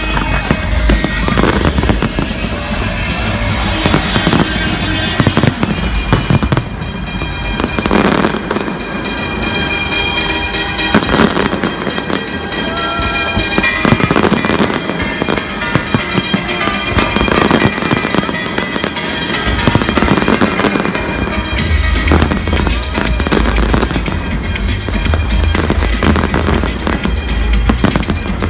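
Fireworks bursting and crackling in rapid, continuous bangs over loud accompanying music, with a deep bass coming in about three quarters of the way through.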